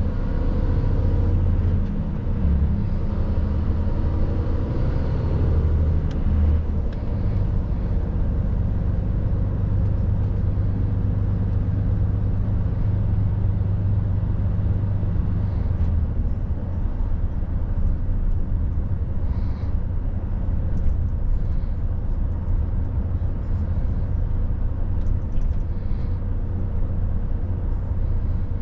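Mercedes truck's diesel engine running under way, with steady tyre and road noise; the engine note shifts about six seconds in and again around sixteen seconds.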